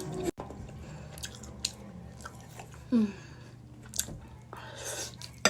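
A person chewing food close to the microphone, with wet mouth sounds and scattered small clicks. A sharp click comes near the end.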